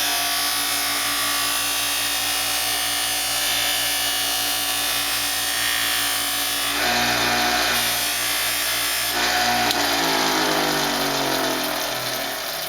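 Motorised buffing machine with cotton buffing wheels running steadily while a carving gouge's edge is polished against the wheel with fine buffing compound. About ten seconds in the motor's hum begins to fall in pitch as the wheel winds down.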